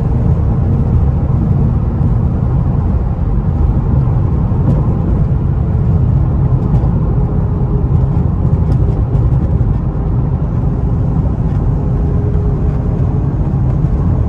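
Infiniti Q50's twin-turbo V6 running steadily with road noise as the car drives at speed, a low rumble that holds level with no revving.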